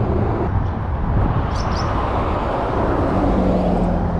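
Steady traffic noise from a nearby highway, with a low hum rising out of it near the end.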